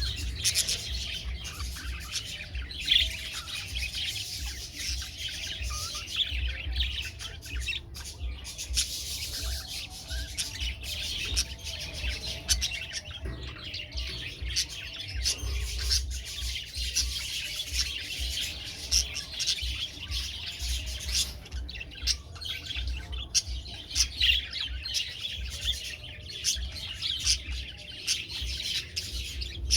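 Several young budgerigars chattering continuously, a dense stream of short high chirps and squawks, over a low rumble.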